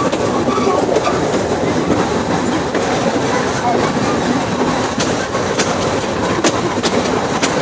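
Mallet 0-4-4-0T (020-020-T) steam tank locomotive running along the line, heard from on board: a steady loud rumble and clatter of the moving train, with several sharp clicks in the second half.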